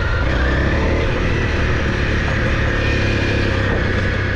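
Honda CRF dirt bike's single-cylinder four-stroke engine running at a steady, loud level close to the microphone.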